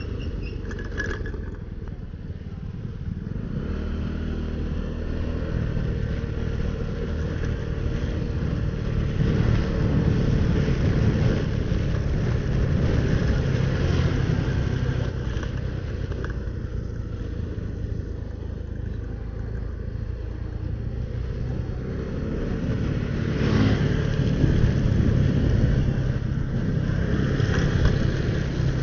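Motorcycle engine running under way, recorded from a helmet-mounted camera, its note rising and falling with the throttle over a steady rush of noise.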